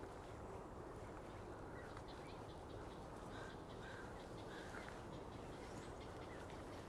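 Faint, scattered short bird calls in a marsh over a steady low hum.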